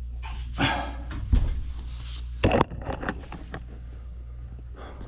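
A washing machine's levelling foot being turned and the machine handled: a few scattered scrapes and clunks, the loudest a low thump and then a sharp knock in the first half, over a steady low hum.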